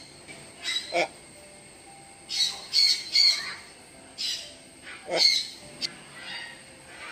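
Green-winged macaw squawking: a series of short, harsh calls, with three in quick succession about two and a half seconds in.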